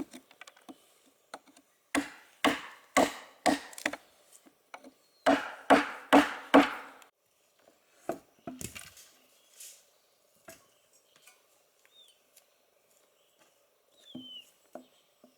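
Wood being chopped with a blade: two runs of four or five sharp chops, about two a second, the first starting about two seconds in and the second about five seconds in, followed by a few quieter knocks.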